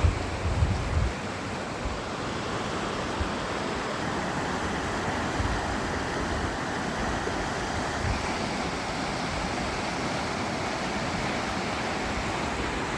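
Creek running high with spring runoff: a steady rush of water, with a few low thumps in the first second.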